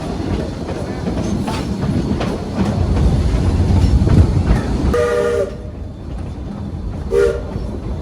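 Narrow-gauge steam locomotive whistle giving two short blasts about two seconds apart, the first longer, over the steady rumble and clack of the train running on the rails. The whistle is the warning signal that the train is entering a curve.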